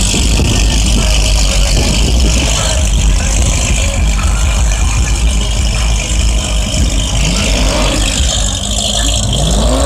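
A car engine running over a steady low rumble, its revs climbing twice in the last couple of seconds.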